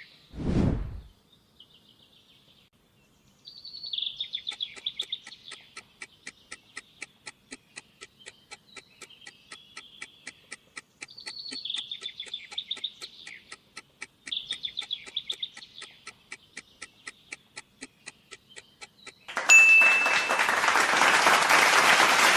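Countdown-timer sound effect: steady clock-like ticking, about three to four ticks a second, over chirping birdsong. Near the end a loud, dense burst of noise, like a rush or applause, takes over.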